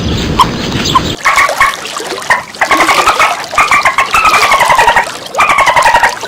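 A series of four or five loud, wavering farm animal calls, each up to about a second and a half long, some falling in pitch, starting about a second in.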